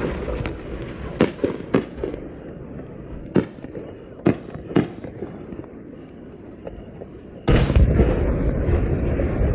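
No. 5 (about 15 cm) aerial firework shell display bursting: a series of sharp bangs and crackling reports, about seven in the first five seconds. About seven and a half seconds in, a loud, steady low rumble sets in suddenly.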